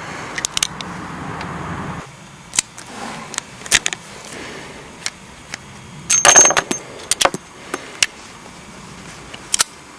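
Smith & Wesson Model 686 .357 Magnum revolver being handled during loading and unloading: irregular sharp metallic clicks of the cylinder and cartridges, with a short clinking rattle of brass about six seconds in.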